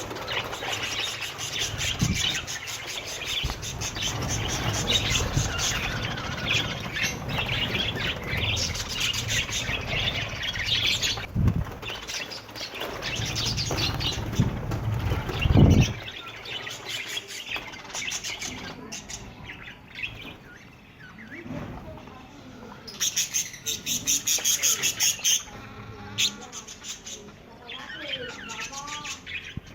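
Budgerigars in a breeding colony chattering and chirping, over a low rumble in the first half with a low thump just before halfway. About two-thirds through comes a run of rapid sharp chirps, and near the end a wavering warble.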